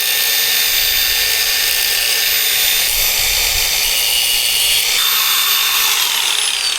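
Angle grinder cutting a steel dirt bike chain link: a loud, steady high whine over a harsh grinding hiss. Near the end the motor is switched off and its pitch falls as the disc spins down.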